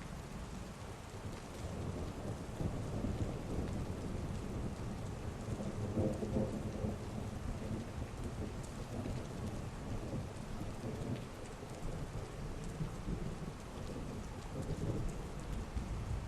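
Heavy rain falling steadily, with thunder rumbling low underneath, swelling about six seconds in and again near the end.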